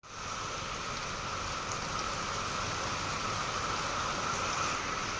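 Heavy rain falling steadily, an even, unbroken hiss that fades in quickly at the very start.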